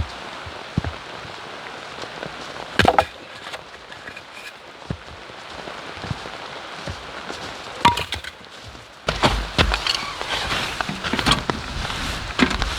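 Steady rain pattering, broken by a few sharp knocks and clinks. About nine seconds in the rain grows louder and closer, with dense patter and a low rumble.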